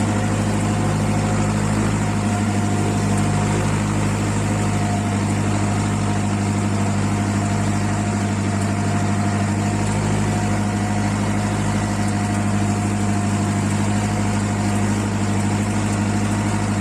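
Tractor engine idling steadily with an even low hum.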